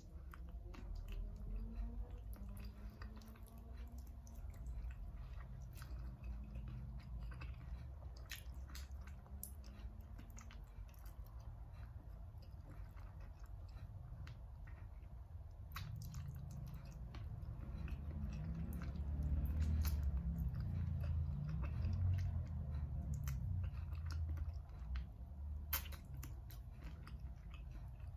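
Close-miked chewing and sucking on bony chicken feet cooked in coconut milk, with many small wet clicks from lips and bones. It grows louder for several seconds past the middle.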